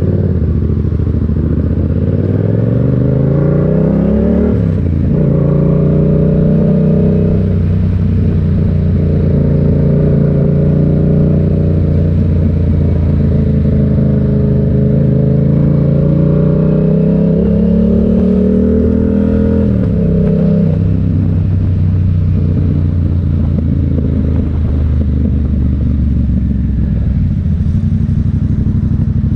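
Motorcycle engine revving up for about four seconds, then dropping sharply as it shifts up. It runs at a wavering pitch and about twenty seconds in eases off to a steady lower note.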